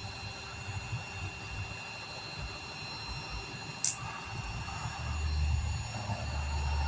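Tow truck's engine running steadily with a low rumble that grows louder about five seconds in, and one sharp click just before four seconds in.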